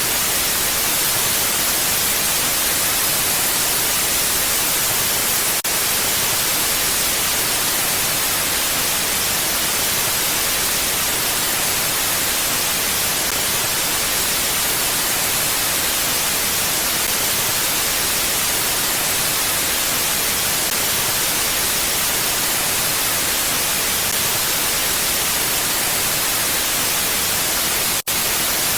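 Steady, even hiss of mountain wind ambience that sounds much like white noise, with no rise or fall. It cuts out for an instant near the end.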